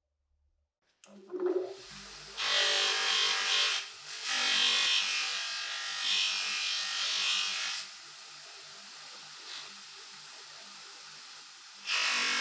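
A small power tool starts about a second in and runs steadily, biting loudly into a workpiece three times in long strokes and again near the end.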